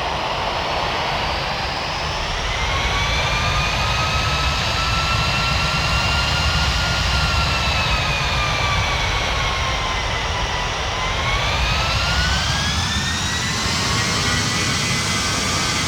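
Boeing 737 MAX 9's CFM LEAP-1B turbofan engines heard from inside the cabin: a steady rush with a whine that rises, sags about two-thirds of the way through, and climbs again as thrust changes.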